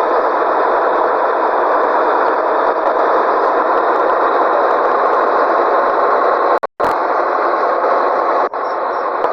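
Scania 113G truck running, a steady, loud engine and road drone. The sound cuts out completely for a moment about two-thirds of the way through.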